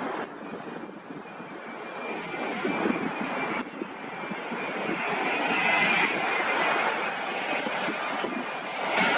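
An airliner's engines running, growing steadily louder as the plane comes nearer, with a faint high whine over the noise.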